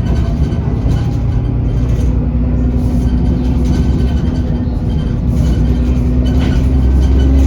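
Diesel engine of a double-decker bus running under way, heard from on board, with a steady turbo whistle over the low drone. The engine note and level rise near the end as the bus pulls harder.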